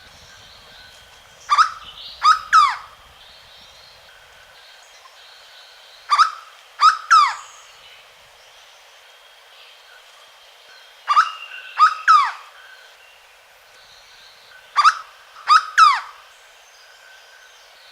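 Hooded berryeater (corocoxó) singing: four loud phrases of two or three quick, steeply falling notes each, repeated about every four to five seconds. Fainter steady high tones run underneath.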